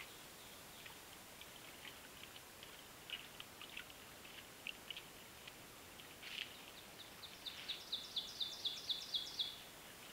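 Wild birds calling over a steady hiss: scattered short chirps, then near the end a quick run of about ten notes, each sliding downward in pitch and growing louder.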